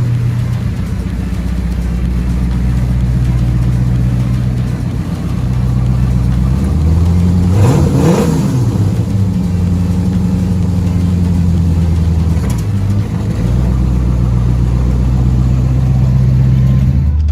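1985 Corvette C4's 5.7-litre V8 running just after a cold start, revved once about halfway through so its pitch climbs and falls back, with a smaller blip a few seconds later.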